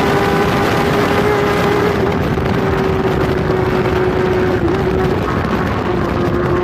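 Onboard sound of a Kawasaki superbike's inline-four engine running hard at high, steady revs, with rushing wind on the microphone. The engine note dips briefly about four and a half seconds in, then holds a slightly lower pitch.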